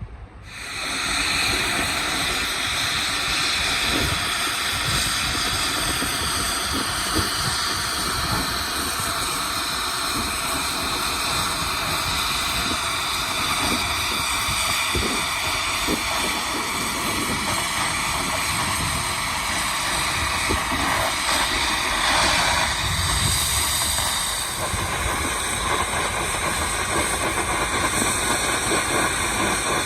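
Metalworking machinery running: a loud, steady hissing noise with several steady whining tones, starting abruptly about half a second in and changing slightly in tone near the end.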